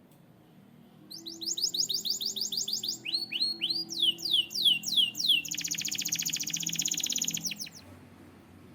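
Canary singing one long song: a rapid run of repeated downward-sweeping whistled notes, a few lower swept notes, several slower sweeps, then a fast trill that stops near the end.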